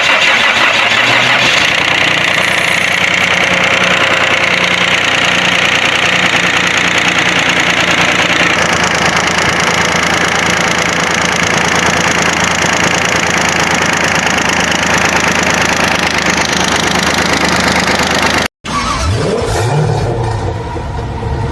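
Car engine running, loud and steady. About 18 s in the sound cuts off for a moment, then the engine is heard again, its pitch rising briefly before settling.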